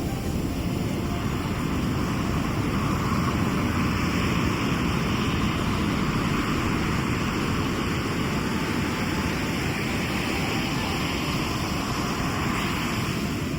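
Sea surf washing in a steady rush that swells about half a second in and dies away near the end, over a low rumble of the sea.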